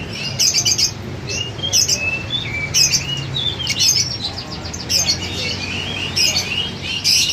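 Many lovebirds chirping together, a dense run of short, high, overlapping calls, with a low steady murmur underneath.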